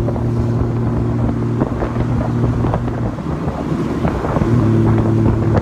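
Honda Valkyrie motorcycle's flat-six engine running under way, with wind noise on the microphone. The steady engine note breaks up for about three seconds in the middle, then settles back in near the end.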